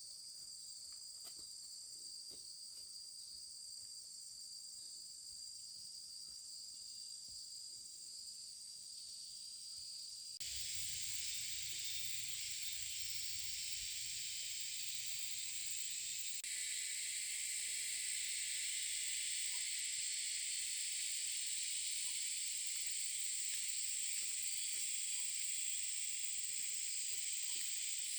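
Outdoor insect chorus: a steady high trilling with two held pitches. About ten seconds in it cuts abruptly to a louder, steady high hiss, with a brief low rumble under it, and it steps louder again a few seconds later.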